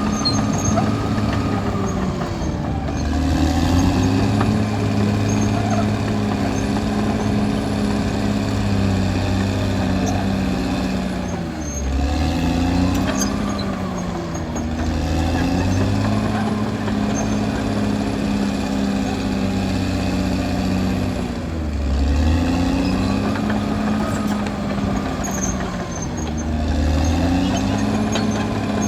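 Caterpillar D6R XL bulldozer's diesel engine running steadily under load, its pitch dipping and recovering about five times as it is loaded down and picks back up.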